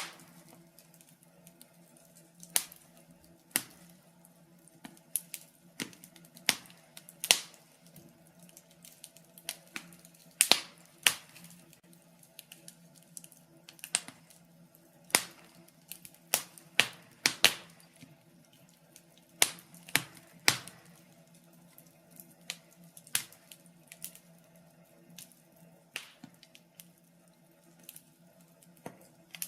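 Burning logs in a fireplace crackling: irregular sharp pops and snaps, sometimes in quick clusters, over a faint steady low hum.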